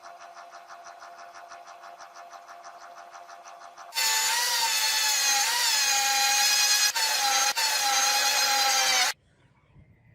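A power tool working metal. At first it runs with a light, rapid pulsing. About four seconds in it jumps to a loud, high whine with a wavering pitch, breaks twice very briefly, and cuts off abruptly about nine seconds in.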